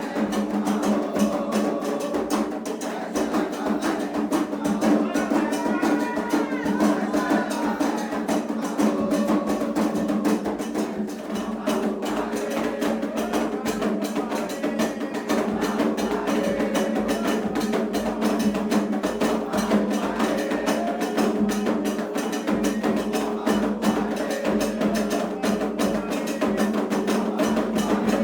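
Candomblé ritual music: drums and a sharp struck percussion keeping a fast, steady rhythm, with voices singing over it.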